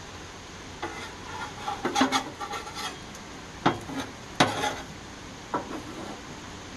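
Spatula scraping around a frying pan, working under an omelet, with two sharp knocks against the pan a little past the middle and a lighter one after.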